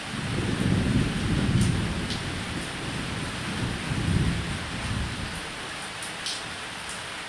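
Steady rain falling on a roof, with low rolling thunder: one rumble swelling up right away and peaking about a second in, and a second, weaker roll about four seconds in.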